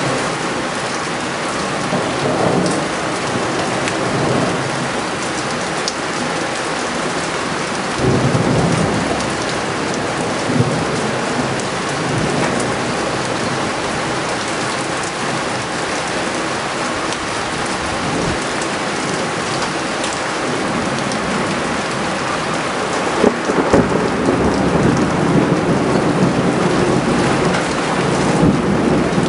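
Thunderstorm: heavy rain pouring steadily, with rumbles of thunder swelling about eight seconds in and again about twenty-three seconds in.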